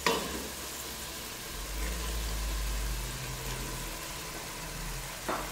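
Tomato-onion masala sizzling in a stainless-steel pot as raw chicken pieces go in, with a knock right at the start. A low, steady mechanical hum comes in about a second and a half in and stops near the end.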